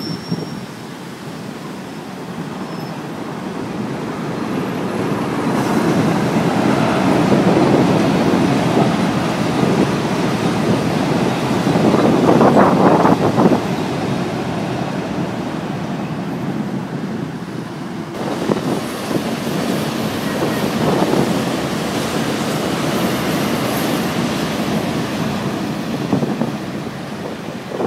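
Electric commuter trains crossing a steel girder railway bridge: a rumble and clatter of wheels on the span that swells to its loudest about halfway through. It changes abruptly about 18 seconds in and carries on as another pass.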